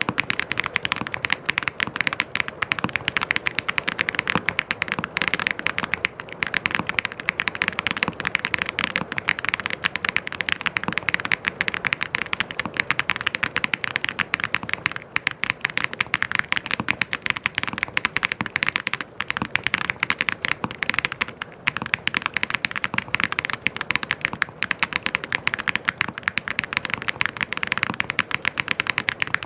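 Fast, continuous typing on a mechanical keyboard: a dense, unbroken run of key clicks.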